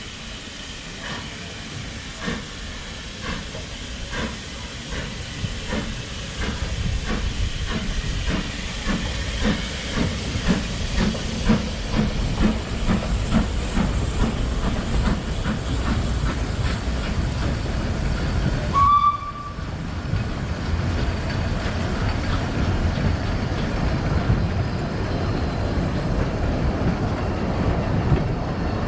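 Narrow-gauge steam train on the move, its rhythmic beats quickening as it gathers speed. About 19 seconds in the sound changes abruptly to a steadier, denser running noise of the train at speed.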